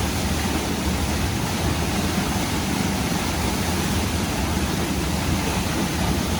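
Steady rushing of a waterfall, a constant even roar of falling water.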